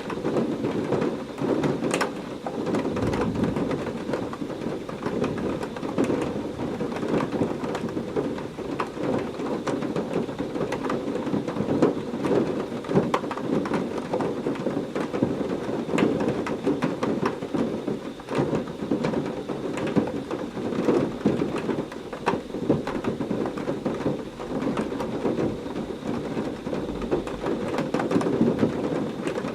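Heavy rain falling steadily, a dense patter with many sharp drop clicks, with low thunder rumbling now and then.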